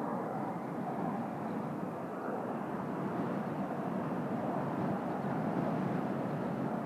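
Distant jet engine noise from the Kawasaki T-4 jet trainers flying overhead: a steady rumble that holds level throughout.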